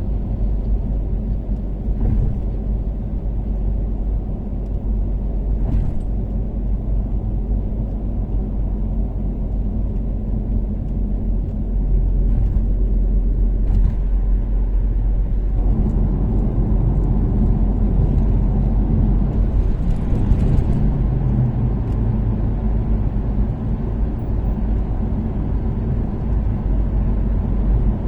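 Toyota Caldina's 3S-GTE turbocharged four-cylinder engine and tyre noise while cruising on an expressway: a steady low rumble that gets louder about twelve seconds in and fuller about sixteen seconds in.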